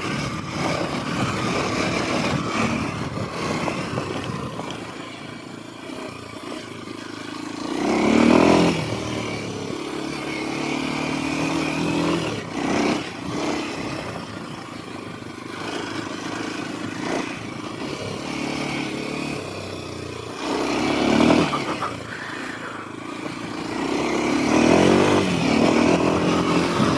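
Kawasaki KLX 230 dual-sport motorcycle's single-cylinder engine under way off-road, revving up and easing off again and again, with the strongest surges about eight seconds in, about twenty-one seconds in, and near the end.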